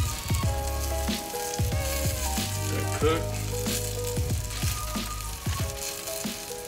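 Breaded chicken cutlet sizzling as it shallow-fries in a cast-iron skillet, a steady fizzing hiss. Background music with a deep bass beat plays along with it.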